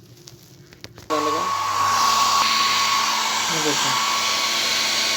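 HongXin RH-5388 hair dryer switched on about a second in after faint handling clicks, then running steadily with a rush of air and a thin whine from its fan motor. The freshly repaired and reassembled dryer is working again.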